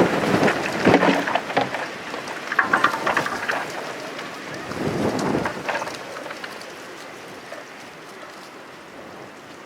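Strong gusting wind buffeting the microphone, loudest at first with another gust about five seconds in, then easing off.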